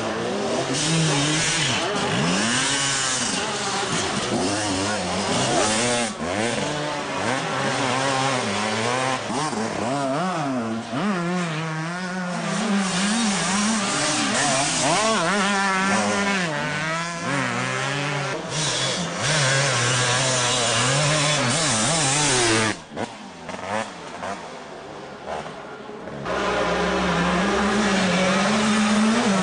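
A Honda CR125's single-cylinder two-stroke motocross engine revving hard, its pitch rising and falling again and again through throttle and gear changes. It drops quieter for a few seconds about three quarters through, then comes back loud.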